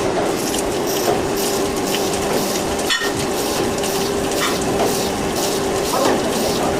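CNC turning machine running while machining a plastic tube: a steady hum with irregular clicking and rattling over a continuous noise.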